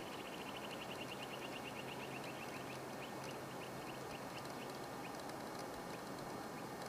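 A bird calling: a rapid run of short, high notes that slows down and fades out about four seconds in, over a steady outdoor hiss.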